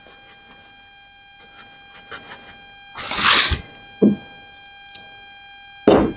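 Plastic bag of panko breadcrumbs crinkling in short bursts as it is handled, with a short dull knock about four seconds in.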